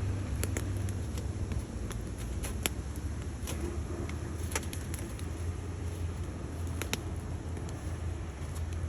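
Firewood burning in a stainless-steel Bush Box XL stove, crackling with scattered sharp pops over a steady low rumble.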